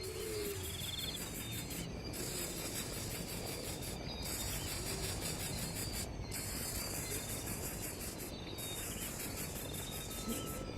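Steady high-pitched insect chorus, like crickets, that breaks off briefly about every two seconds, with a few short faint bird trills.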